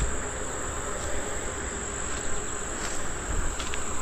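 Insects trilling steadily on one unbroken high note, with faint low rustling underneath.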